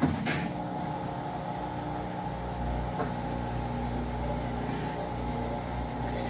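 Amana top-load washer spinning empty: a steady motor and drum hum with no belt screech, the drive belt quiet after belt conditioner and a speed-sensor recalibration. The sound starts abruptly.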